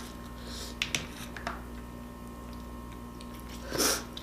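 Eating shellfish: a few faint clicks from handling the shell, then a louder noisy crunch or slurp near the end.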